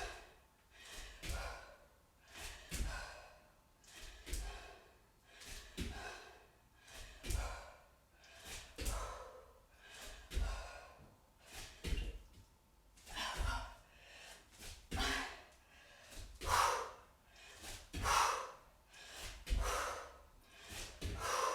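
Hard, rhythmic breathing with forceful exhalations during jumping lunges, and a dull thud of feet landing on the floor about every second and a half.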